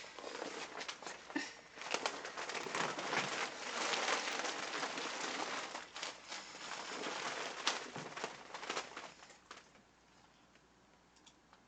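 Clear plastic PVC rain poncho crinkling and crackling in a dense run of rustles and sharp crackles, fading to a faint rustle near the end.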